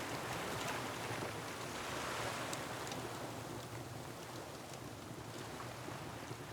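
Ocean waves washing against a rocky shore, one swell building about two seconds in and then easing off, with the small scattered pops of a crackling wood fire.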